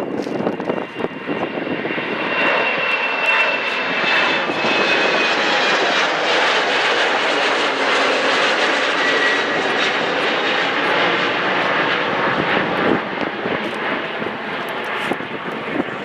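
Jet airliner's engines passing close by: a rush of engine noise that builds over the first few seconds, holds loud and steady with a faint whine falling slightly in pitch, then eases a little near the end.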